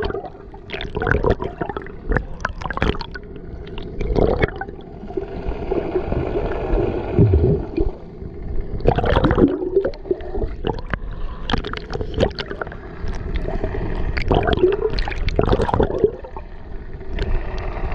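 Seawater gurgling and splashing close to the microphone in irregular bursts, over a steady low rumble.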